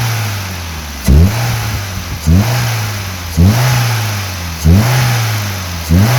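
2009 Maruti Suzuki WagonR petrol engine blipped from idle five times, about once a second, each rev rising sharply and falling back. A rush of air comes at the start of each blip. This is air being sucked in past the air-filter case cap, which sits loose because its lock is broken.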